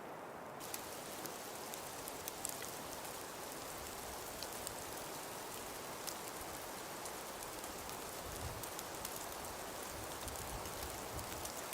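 Snowstorm ambience: a steady hiss of wind with fine, dense ticking of snow grains striking surfaces, growing crisper about a second in, with a couple of low rumbles of wind toward the end.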